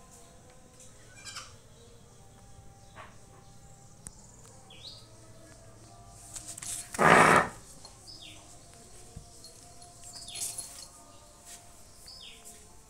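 Short, high, falling bird chirps every few seconds, with one loud brief rustling scuff about seven seconds in.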